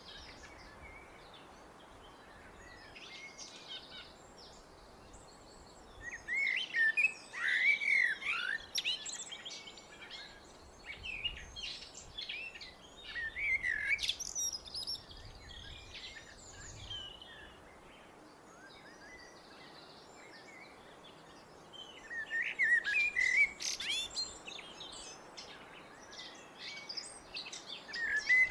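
Blackbird singing: separate warbled phrases with higher twittering parts, a few seconds of pause between them.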